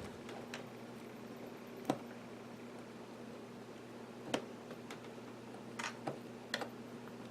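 Small sharp clicks of a plastic pry tool working against an iPhone 5's screen and case: one about two seconds in, another past four seconds, and a quick cluster near the end, over a faint steady electrical hum.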